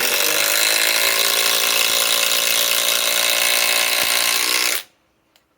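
Flex compact cordless impact driver, on a 3.5 Ah stacked-lithium battery, hammering steadily as it drives a TimberLOK structural screw into timber. It runs for about five seconds and stops abruptly near the end.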